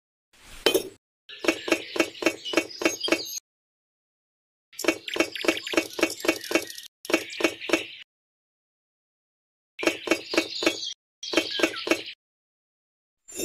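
Miniature clay bricks clinking and clicking against one another as they are stacked, in quick runs of about four knocks a second that stop abruptly between clips. Near the end a short rushing burst begins.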